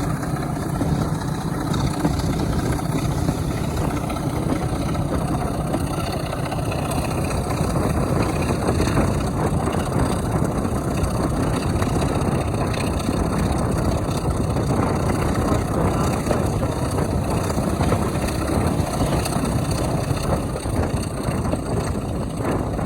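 Heritage diesel locomotive engine running steadily.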